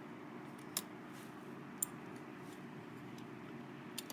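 Light clicks and taps of small die-cast metal toy cars being handled, three short clicks over a steady low hum.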